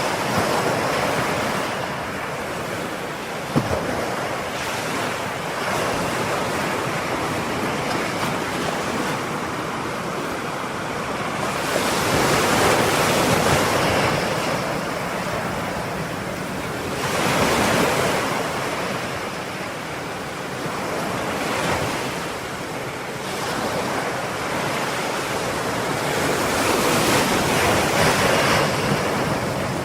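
Ocean surf: waves breaking and washing up the shore in a continuous rush that swells and ebbs, louder surges coming every five to ten seconds. There is one short knock a few seconds in.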